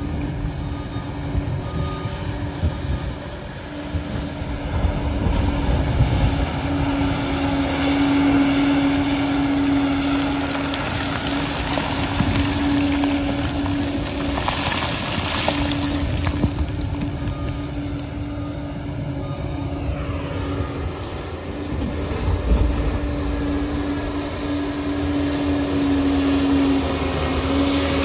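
Liebherr 746 bulldozer working, its diesel engine running under load with a steady hum over a rumbling low end. The level swells and eases as it works.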